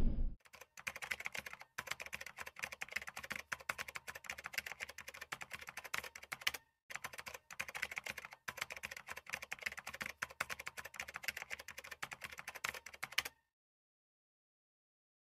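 Rapid computer-keyboard typing clicks, a typing sound effect of the kind laid under on-screen text. They run in long quick runs with two brief breaks, then stop abruptly near the end.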